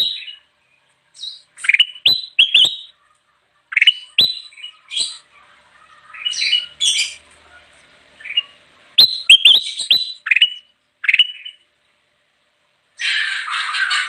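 Kutilang emas, a bulbul, singing. Bursts of short, quick rising whistled notes come in groups with pauses between them. About a second before the end, a louder, harsher run of chattering calls begins.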